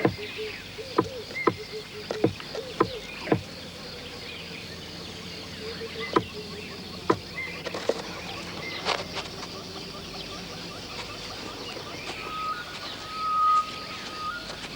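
A series of sharp knocks, about ten over the first nine seconds and unevenly spaced, over a steady background of insects and other natural ambience. Near the end a steady whistle-like tone swells and then stops.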